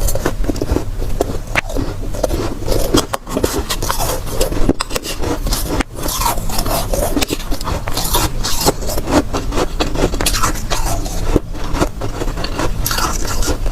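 Soft, powdery freezer frost being scraped and crunched close to the microphone: a continuous rasping scrape with many small crackles.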